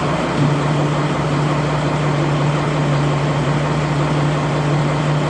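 Training boat's engine idling in neutral: a steady low hum with one strong tone, which dips briefly just after the start and then holds steady.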